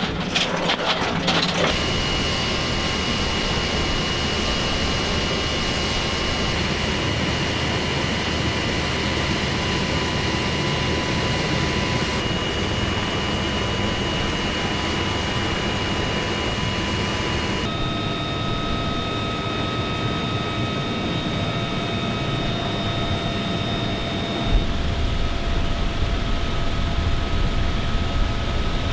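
Military helicopter's turbine engines and rotor running steadily, a loud roar with a high whine. The whine's pitch jumps abruptly a few times. A rapid train of knocks comes in the first second or so.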